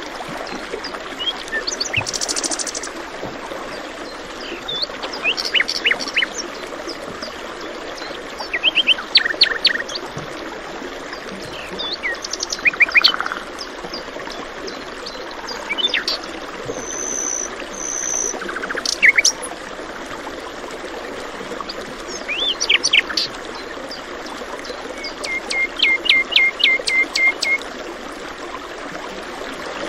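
Several songbirds chirping and singing over the steady rush of flowing water. Near the end one bird gives a quick run of a dozen or so short, even notes.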